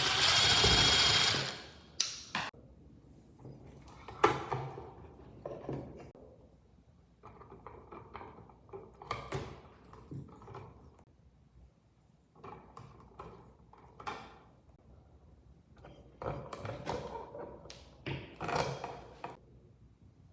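Hand-tool and parts handling: irregular clicks, knocks and short scraping bursts, opening with a loud hiss about two seconds long.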